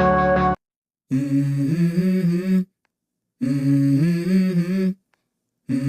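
Music: sustained instrumental chords stop about half a second in, then a male voice hums "mm-hmm" three times, each phrase stepping in pitch, with short silent gaps between. This is the a cappella opening of a pop song.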